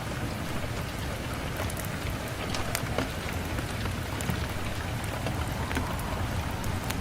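Steady rain falling on a window, a constant hiss with scattered sharp ticks of individual drops hitting.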